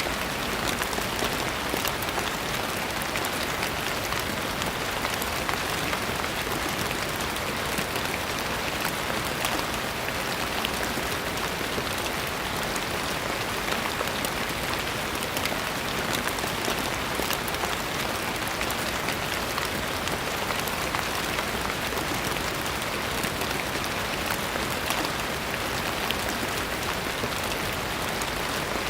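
Steady rain falling, a dense, even patter of many fine drops hitting a surface without a break.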